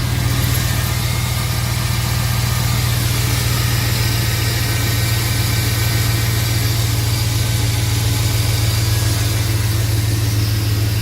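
Chevy Tahoe V8 idling steadily through Flowmaster 50 Series mufflers, still cold from a cold start at about 50 degrees, with a deep, even exhaust note.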